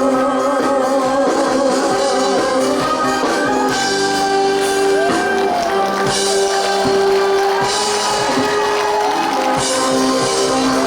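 Korean trot song: a girl's voice singing over the instrumental accompaniment, with sliding, ornamented notes.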